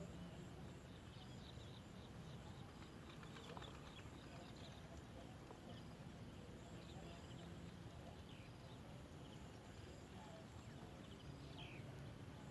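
Near silence: faint outdoor background with scattered faint, high bird chirps, one of them a short falling note near the end.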